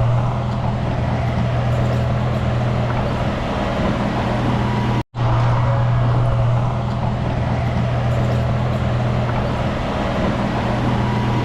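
Diesel engine of heavy earthmoving equipment running steadily at a constant pitch, with rattling above it. It cuts out abruptly for a split second about five seconds in.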